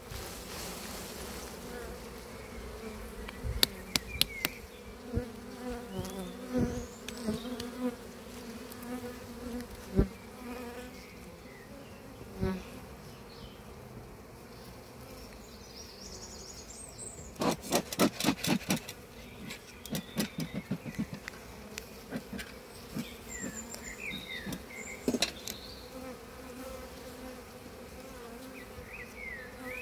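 Honey bees buzzing in a steady hum at an open hive, with scattered knocks and clicks and a quick run of about eight knocks some eighteen seconds in.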